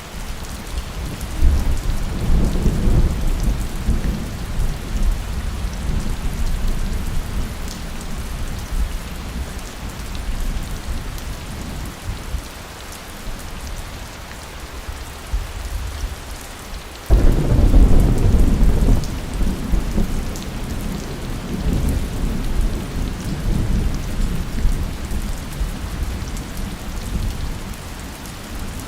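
Steady heavy rain with two rolls of thunder: the first rumbles up about a second and a half in and fades over several seconds, the second breaks suddenly at about seventeen seconds in, louder, and rolls away slowly.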